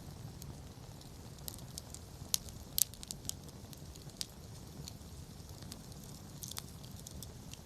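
Wood fire burning: a low steady rumble of flames with scattered sharp crackles and pops, the loudest a little under three seconds in.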